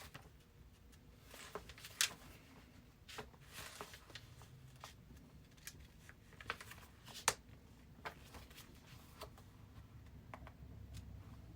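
Faint, scattered clicks and short rustles of small objects being handled, irregular, with two sharper clicks about two seconds and seven seconds in.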